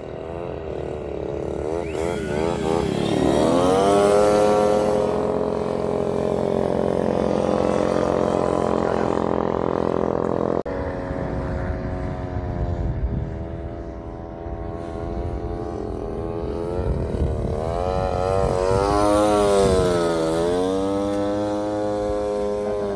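RC airplane powered by a grass-cutter engine in flight. The engine note climbs in pitch and holds steady, breaks off abruptly about ten seconds in, then swings up and down in pitch as the plane flies past.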